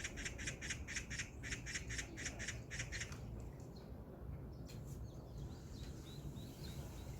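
A bird giving a fast, harsh chattering call, about seven rasping notes a second, which stops about three seconds in; faint chirps follow over a steady low background rumble.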